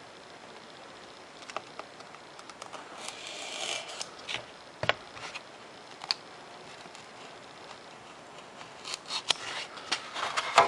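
Razor knife blade drawn through a 3mm Depron foam sheet along a ruler: scratchy cutting strokes with scattered light clicks, coming in a burst about three seconds in and again near the end.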